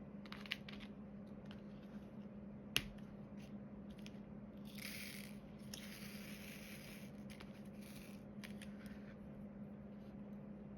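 Quiet diamond painting handwork: small clicks and taps of the drill pen and resin drills on the canvas and tray, with a sharper click about three seconds in and a few seconds of scraping rustle in the middle, over a steady low hum.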